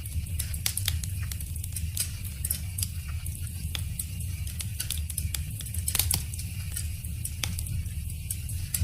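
Wood fire crackling: many irregular sharp pops and snaps over a steady low rumble, with a few louder pops about six seconds in.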